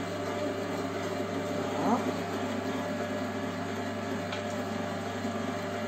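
Electric meat grinder running steadily, its motor giving a quiet, even hum as it grinds meat. A brief rising sound comes about two seconds in.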